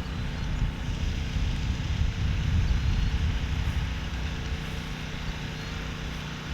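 Parrot Anafi quadcopter's propellers humming steadily, mixed with low wind rumble on the microphone that swells about two to three seconds in.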